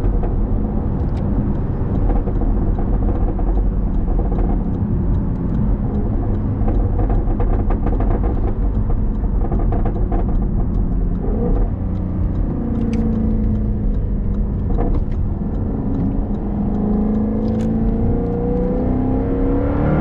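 2015 Jaguar F-Type R's supercharged V8 running loud through its active exhaust. In the second half the engine revs up and down repeatedly, with rising and falling pitch.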